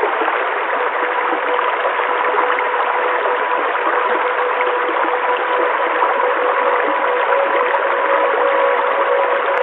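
Steady rushing of a stream's flowing water. Beneath it is a faint held tone at two pitches that grows slightly toward the end.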